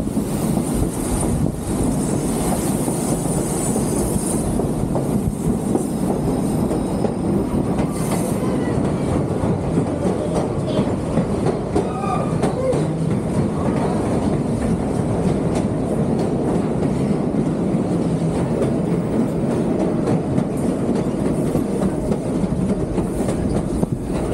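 White Pass & Yukon Route narrow-gauge passenger coaches rolling along the track, heard from an open end platform: a steady rumble and clatter of wheels over the rails. A thin, high wheel squeal comes through faintly in the first few seconds and again briefly about eight seconds in.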